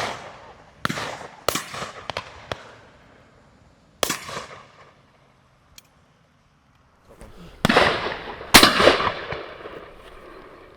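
Shotgun shots on a driven game shoot: about eight shots at uneven intervals, some distant and some close and loud, each ringing away into the surrounding hills. The two loudest come near the end.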